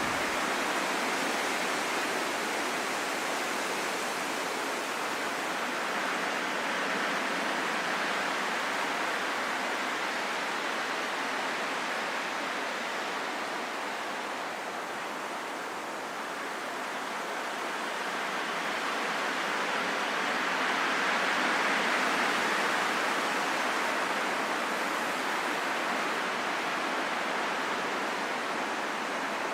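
Steady wind, a rushing noise with no pitch that slowly swells and eases, dipping about halfway through and rising again a few seconds later.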